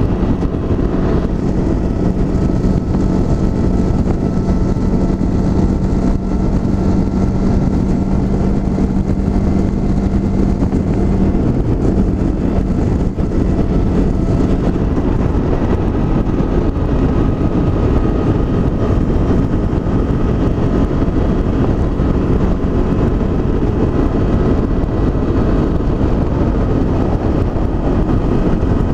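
Honda CB500X's parallel-twin engine running at a steady road speed, under a heavy rush of wind noise. Its steady engine note holds, then drops away about eleven seconds in.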